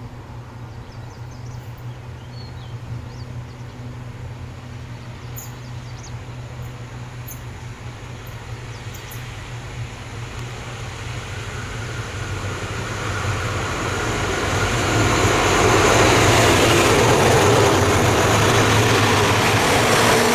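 Diesel-hauled passenger train: a steady low engine hum, then the running noise of the moving train building up over the second half and staying loud.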